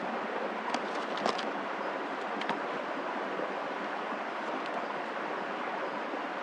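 Steady rushing outdoor noise with a few faint sharp clicks in the first couple of seconds.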